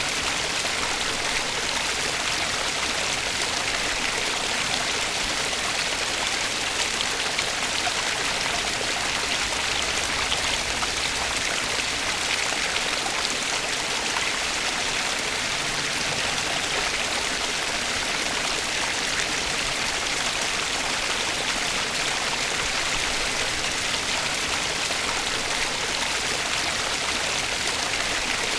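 Flowing water running steadily, an even, unbroken rush.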